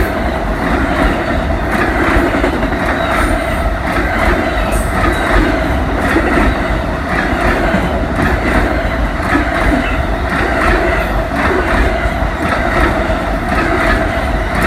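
Railroad cars rolling past, loud and steady, their wheels clicking over the rail joints.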